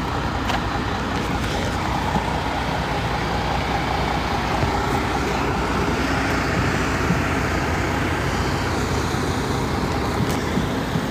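Trucks' diesel engines running, a steady rumble with no single event standing out.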